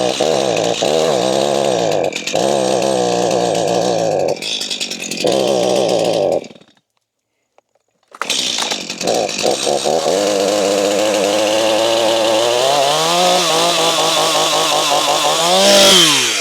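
Stihl MS 251 two-stroke chainsaw running, its revs rising and falling as the throttle is worked. The sound cuts out completely for about a second and a half partway through. The saw then comes back near idle and is revved up twice towards the end.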